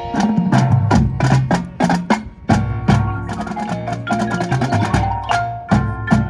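Marching show band playing: sharp, loud drum and percussion hits land over sustained low notes, with ringing mallet percussion.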